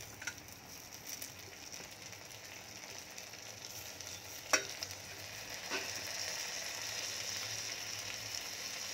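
Onions and chopped tomatoes sizzling in hot oil in a pressure cooker, the sizzle growing louder over the later seconds as the tomatoes heat. A sharp knock about halfway through, with a lighter one about a second later.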